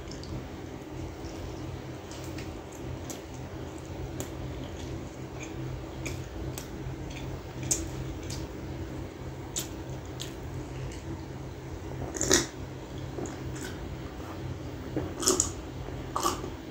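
Close-up mouth sounds of chewing a mouthful of butter naan with chicken gravy: soft wet smacks and clicks, the loudest one about twelve seconds in. Near the end come gulps of a drink from a glass mug. A steady low hum runs underneath.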